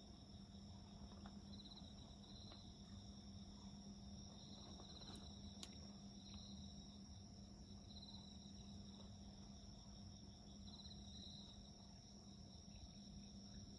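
Faint crickets singing, a steady high chirring with short trills repeating every second or two, over the occasional soft crackle of a wood fire.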